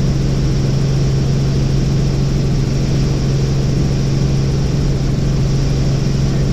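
Helicopter in flight: a steady, loud engine and rotor drone with a strong low hum that does not change.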